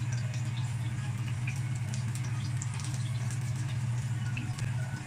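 Eggplant slices frying in oil in a wok, sizzling with scattered small pops and crackles. Under it runs a steady low hum, the loudest sound.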